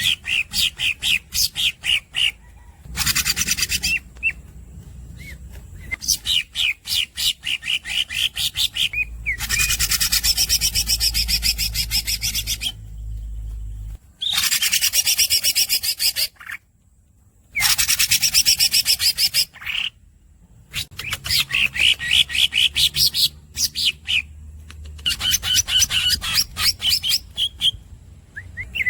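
Cucak ijo (green leafbird) singing: runs of rapid, repeated high squeaky chirps, broken by several long, fast rolling trills of two to three seconds each.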